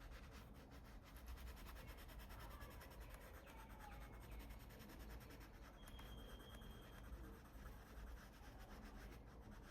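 Coloured pencil shading on paper in quick, light back-and-forth strokes, faint and scratchy: a base layer of ivory going down.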